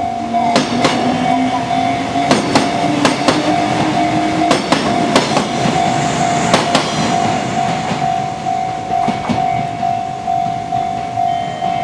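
Kintetsu electric train passing over a Japanese level crossing, its wheels clacking over the rail joints in quick pairs. A motor whine rises in pitch over the first few seconds. The crossing's alarm bell rings steadily, pulsing in a regular beat.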